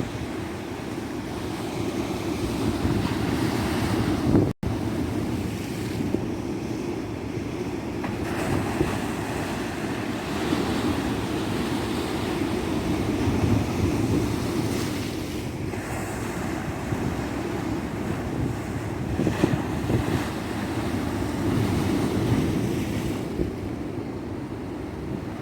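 Ocean surf breaking and washing on a beach in a continuous, slowly swelling wash. The sound cuts out for an instant about four and a half seconds in.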